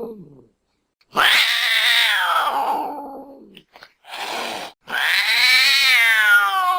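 Cat meowing loudly: a long drawn-out meow that falls in pitch, a brief breathy noise, then a second long meow that rises and then falls.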